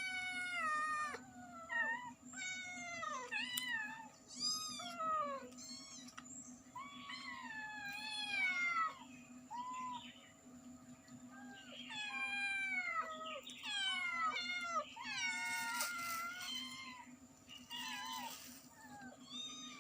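Cat and kittens meowing over and over, a string of high meows that mostly fall in pitch, some overlapping, with brief pauses between them.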